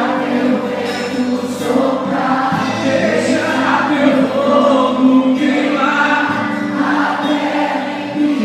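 Worship music with many voices singing together in long, bending held notes over steady sustained low tones.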